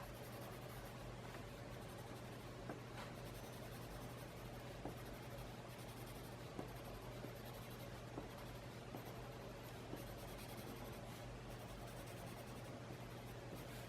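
Faint scratching of a colored pencil shading on paper, with a few soft ticks along the way over a steady low hum.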